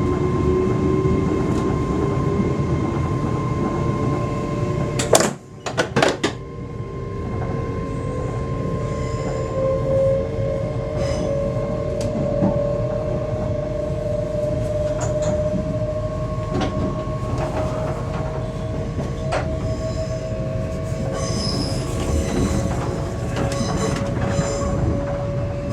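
Electric train running, with its traction-motor whine rising slowly in pitch as it gathers speed over a steady rumble of wheels on rail. A brief dip and a short clatter of loud knocks come about five seconds in.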